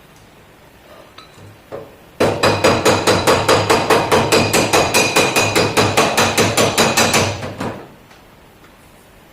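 A hammer beating rapidly on a metal car body panel, about five even blows a second for about five seconds, each with a metallic ring, after a few light taps.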